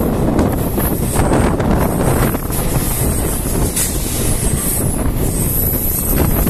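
Steady rushing wind on the microphone over the rumble and irregular clatter of train wheels on rails, from an open window of a moving train as a freight train hauled by electric locomotives passes on the next track.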